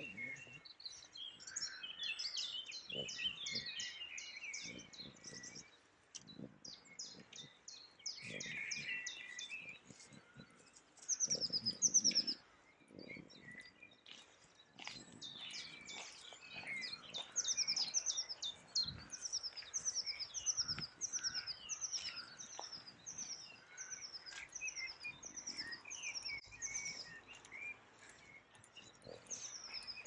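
Several small songbirds singing and chirping, with one bird repeating a short high falling note about twice a second through the second half. Faint footsteps on the path underneath.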